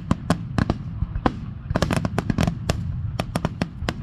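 Aerial fireworks in a finale barrage: many shells bursting in quick, irregular succession, sharp bangs over a continuous low rumble.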